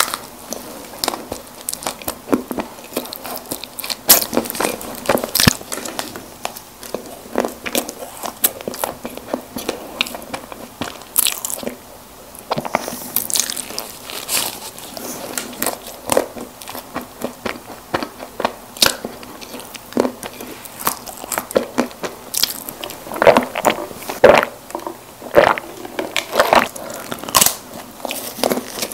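Close-miked chewing and biting of soft snack cakes, a steady run of many short wet crackles and clicks, with a louder cluster of bites near the end.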